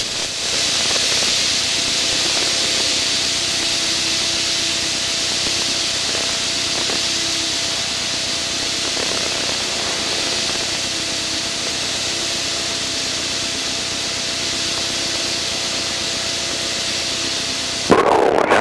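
Steady cockpit noise of a light aircraft in formation flight: a loud, even rush of airflow and engine over a faint steady hum.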